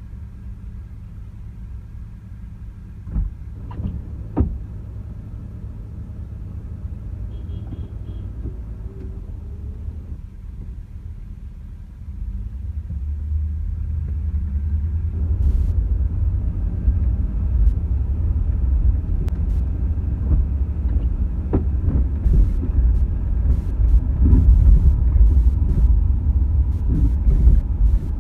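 Car on the move, a steady low road-and-engine rumble that gets louder about twelve seconds in as it speeds up, with a few short knocks a few seconds in and scattered clicks later.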